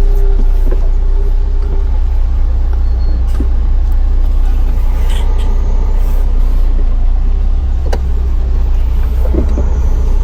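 Heavy truck's diesel engine running with a steady low rumble, a brief steady tone near the start and a sharp click about eight seconds in.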